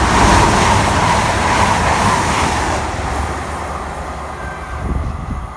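Class 222 Meridian diesel multiple unit running through the station past the platform, a loud rushing and rumbling that is loudest at first and fades away over the next few seconds.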